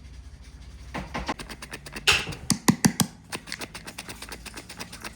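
A fast run of light taps and knocks, loudest about two to three seconds in, over a low steady hum.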